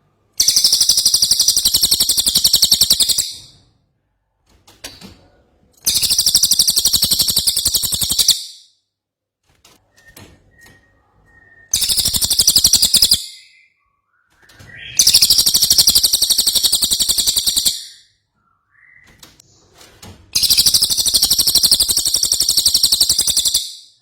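Cililin bird in full song, giving five long, rapid, high-pitched chattering trills of about two and a half to three seconds each, with short pauses between that hold faint chirps.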